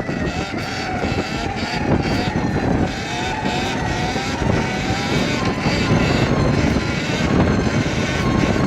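Sur-Ron electric dirt bike being ridden: its motor whine rises and falls in pitch with the throttle over a steady rush of noise.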